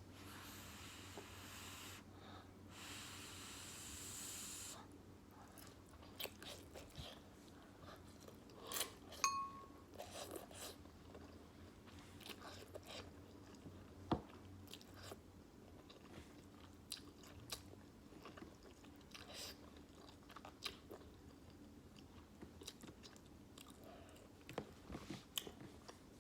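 A person eating beef ramen noodles close to the microphone: faint, wet chewing and mouth sounds with many small scattered clicks. For the first five seconds there is a hissing noise, broken briefly about two seconds in.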